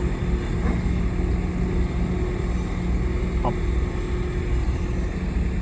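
Heavy earthmoving machinery's diesel engine running steadily, a low drone with a constant hum.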